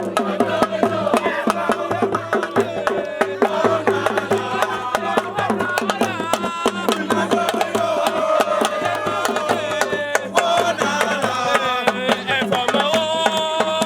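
Fast, dense drumming with voices singing over it; near the end the voices grow louder.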